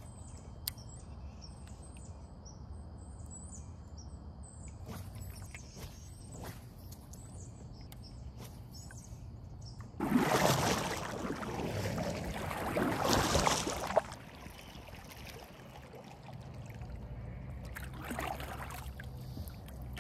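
Birds chirping in the background. About halfway through, a kayak paddle dips and swishes through the water for about four seconds, louder twice, and there is one shorter swish near the end.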